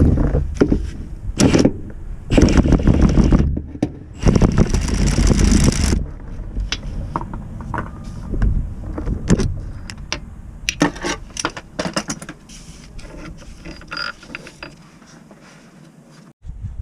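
A power tool running in four bursts over the first six seconds, then scattered metallic clicks and clinks of tools and parts being handled.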